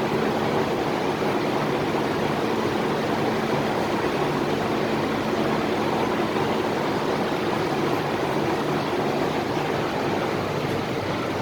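MTR Tung Chung Line K-Train (Hyundai Rotem EMU) running between stations, heard from inside the carriage: a steady rush of wheel and running noise with a faint even hum underneath.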